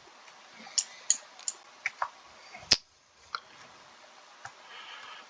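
Computer mouse clicking, about eight separate sharp clicks at uneven intervals, the loudest one near the middle, over faint microphone hiss.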